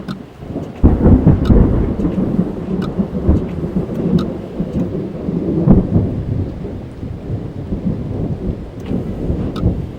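A loud thunderclap breaks about a second in and rumbles on, swelling again midway and slowly easing toward the end, over steady rain heard from inside a car.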